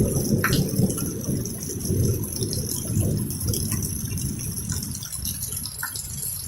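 Thunder rumbling, loudest at the start and dying away over about five seconds, over steady rain.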